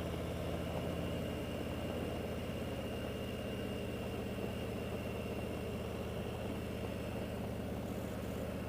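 Motorcycle engine running steadily while cruising, a low even hum with no revving or gear changes.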